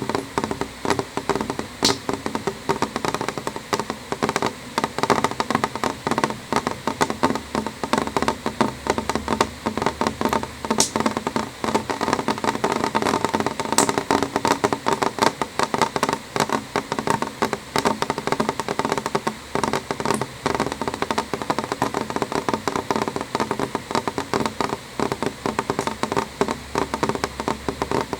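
Rain falling on a window pane: a dense, steady patter of drops on the glass, with a few sharper single drops standing out.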